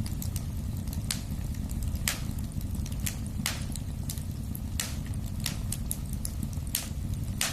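Wood fire burning in a fireplace: a steady low rumble of the flames with irregular sharp crackles and pops from the burning logs, several of them loud.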